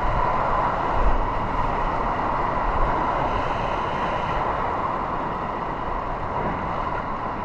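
Steady rushing of river water, with a low rumble of wind on the microphone, easing slightly toward the end.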